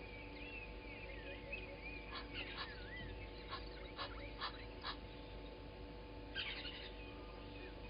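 Several wild birds calling at once in a morning chorus: whistled notes that rise and fall, many short sharp calls, and a low call repeated at an even pace underneath.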